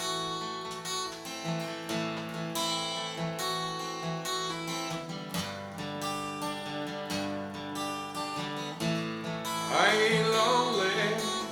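Acoustic guitar playing a song intro with steady, regular picked and strummed chords. A singing voice comes in near the end.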